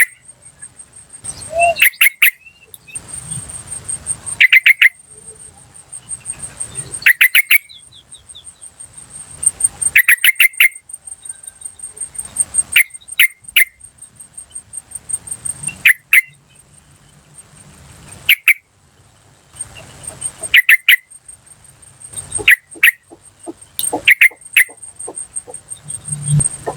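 Yellow-vented bulbul calling in short bursts of rapid chirps, a burst every one to three seconds. A steady, high, pulsing insect trill runs underneath.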